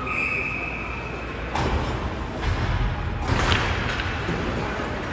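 Ice hockey game in a rink: a single steady whistle blast lasting about a second and a half, then sharp knocks of stick, puck and boards, with the loudest knock about three and a half seconds in, over the steady hum of the arena.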